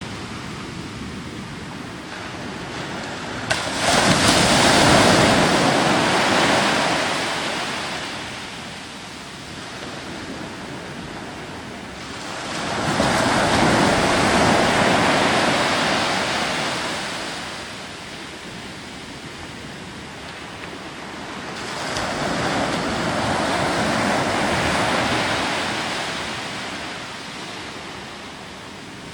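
Ocean surf breaking, three waves that each swell up and fade away over a few seconds, about nine seconds apart.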